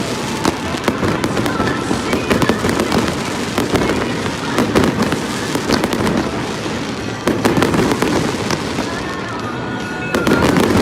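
Aerial fireworks going off in a dense, continuous barrage: many sharp bangs and crackles overlapping with no break.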